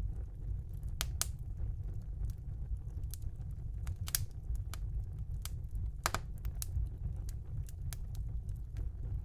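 Wood fire burning in a fireplace: scattered sharp crackles and pops at irregular intervals over a steady low rumble of the flames.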